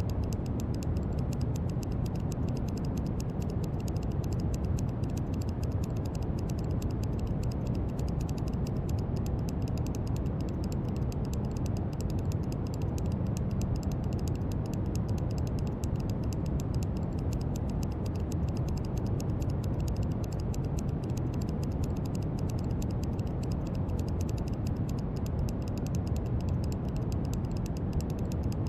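Brown noise: a steady, deep hiss weighted toward the low end, unchanging in level.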